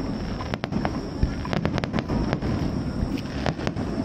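Fireworks going off: an irregular run of sharp cracks and bangs over a continuous low rumble.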